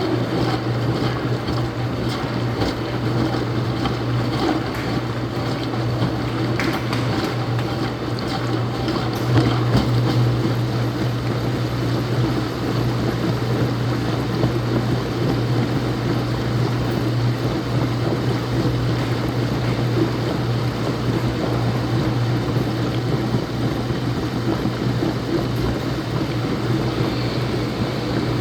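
Laundromat washing machine running: a steady hum with a rushing noise over it.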